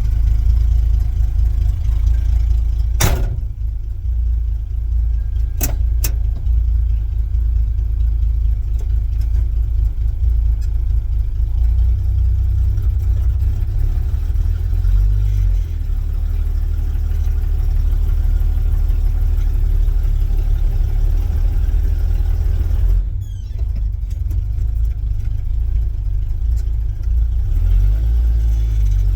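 1972 Chevrolet C10 pickup's engine running with a heavy low rumble, its note shifting as the truck is driven, with a sharp knock about three seconds in and two more near six seconds.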